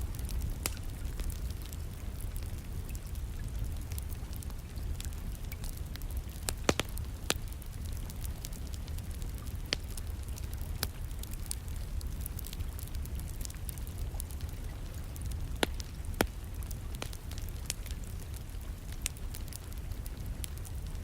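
Wood fire burning in a fireplace, crackling with scattered sharp pops over a steady low rumble, mixed with a bed of steady rain. A few louder pops come about a third of the way in and again about three quarters of the way in.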